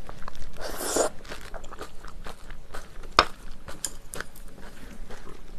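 Close-up mouth sounds of a person chewing a spoonful of jjajang rice: irregular wet clicks and soft crunching. A denser wet burst comes about a second in, and a single sharp click a little after three seconds.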